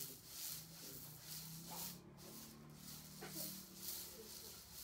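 Hula hoops spinning around arms, a soft rhythmic swish about twice a second, over a faint low hum.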